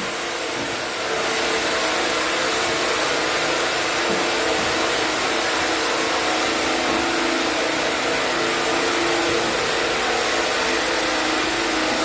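Sawmill band saw running steadily through a chinaberry log, a continuous even whirring hiss.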